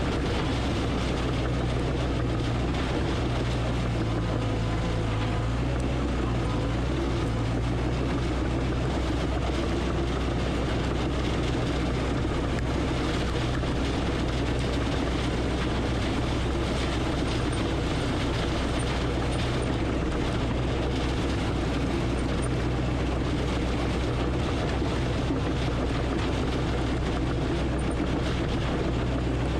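Heavy earthmoving equipment's diesel engine running steadily under load, a constant low drone.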